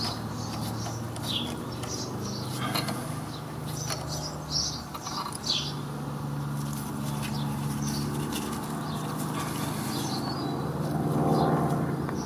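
Small birds chirping on and off with short high calls, over a steady low droning hum.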